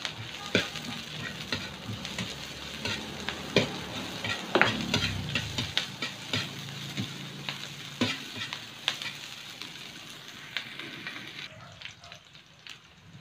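Chopped onion, ginger and green chilies sizzling in oil in a large metal wok, stirred with a metal ladle that clicks and scrapes against the pan. The sizzle and stirring die down near the end.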